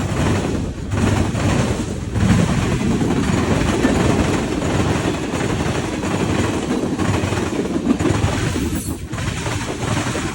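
A train passing close by: a steady, loud rumble of rolling wheels and rail noise.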